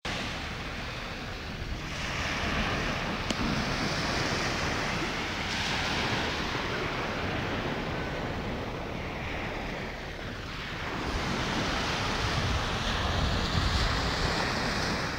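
Sea waves washing in and breaking, swelling and falling away several times, with wind buffeting the microphone.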